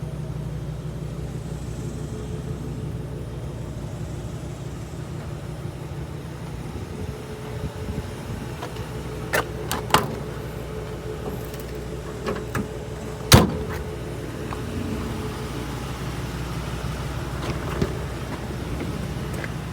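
Ford F-550's 6.8L V10 engine running steadily at idle, with a few sharp knocks or clicks in the middle, the loudest about thirteen seconds in.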